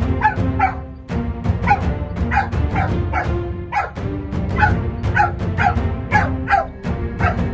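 Labrador puppy yelping in short cries that fall in pitch, about two a second, over background music.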